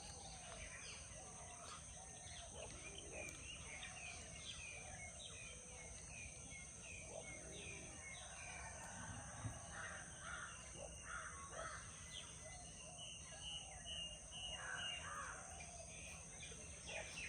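Birds calling in short, scattered chirps and caws, over a steady high-pitched hiss.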